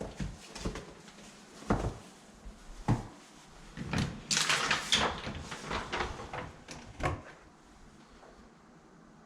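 Cupboard and room doors being opened and shut: a string of separate knocks and clunks, with a denser clattering stretch about four to six seconds in.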